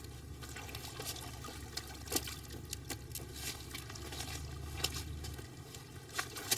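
Scattered sharp clicks and light watery trickling over a low steady hum; the hum stops about five and a half seconds in.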